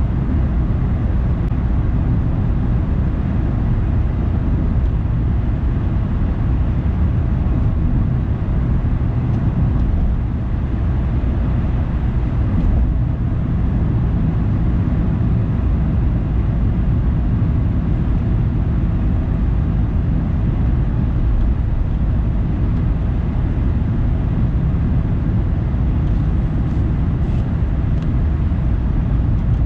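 Steady low rumble of a car driving: engine and tyre noise, even throughout, with a fainter hiss above it.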